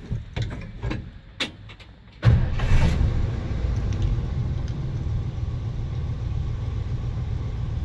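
A few light clicks, then the 1973 Ford F100's 302 V8 engine cranks and catches about two seconds in, settling into a steady idle. It starts right up on the first try.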